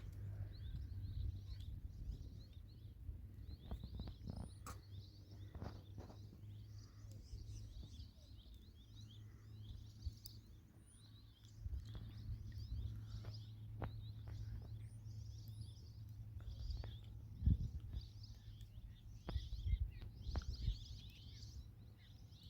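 Small birds chirping repeatedly over a steady low rumble, with a few scattered clicks.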